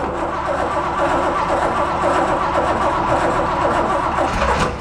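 Starter motor cranking the 1960 Corvette's 350 V8 in a steady rhythm without it catching, then stopping abruptly near the end. The engine has sat over 40 years and runs only on gas poured into the carburettor bowls.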